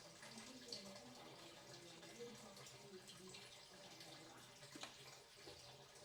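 Faint water sounds with a few light clicks and knocks.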